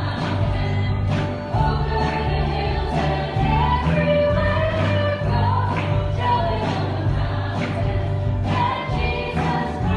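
Worship band playing a song with several voices singing together, over steady bass and a regular drum beat.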